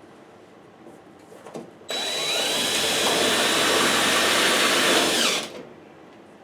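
A handheld power tool motor runs for about three and a half seconds with a high whine, spinning up about two seconds in and winding down near the end.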